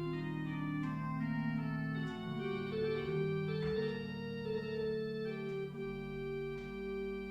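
Organ music: slow, sustained chords, each held for a second or more before moving to the next.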